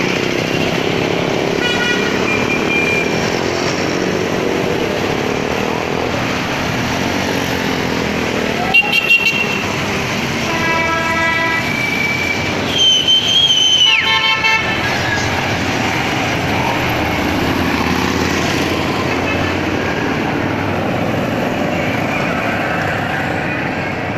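Motorcycle engines running as a parade of bikes rides past. Horns honk several times around the middle: a quick string of short toots, then two longer blasts.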